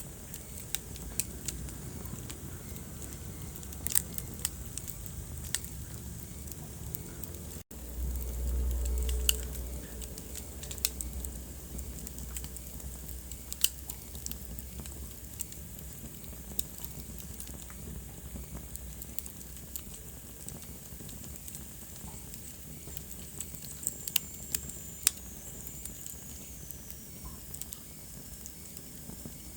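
Wood fire crackling in a fireplace: irregular sharp pops and snaps over a steady hiss. About a third of the way in the sound cuts out for an instant and comes back with a low rumble for a couple of seconds.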